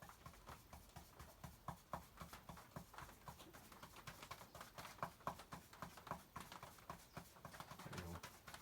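Faint, rapid, irregular tapping of a paint brush dabbing paint through a stencil onto the wooden toolbox.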